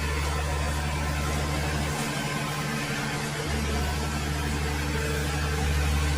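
Ghazi tractor's diesel engine running steadily at a constant speed, with a slight shift in its low note partway through.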